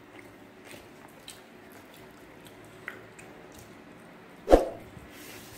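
Chewing and soft wet mouth sounds of someone eating biryani by hand, with faint scattered clicks. One short, louder thump comes about four and a half seconds in.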